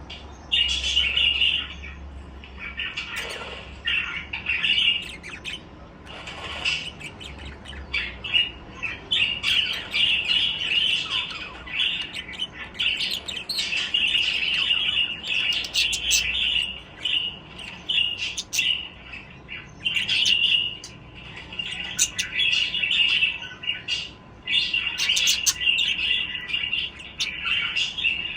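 Budgerigars chattering and chirping almost without a break: rapid, warbling, high-pitched notes with occasional sharper squawks.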